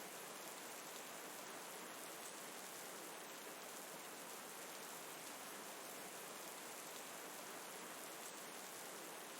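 Steady rain mixed with flowing river water: an even hiss that does not change.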